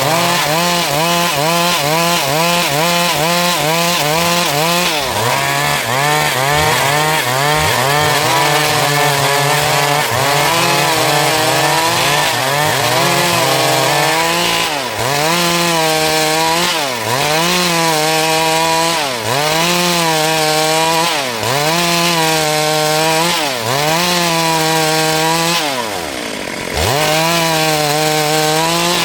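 Stihl MS 382 two-stroke chainsaw running at high revs, cutting a dry log, its pitch wavering under load. In the second half the revs dip and recover about every two seconds, with one deeper drop near the end.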